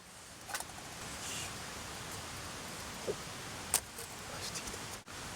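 Steady rush of a mountain stream, with a few light clicks of small utensils.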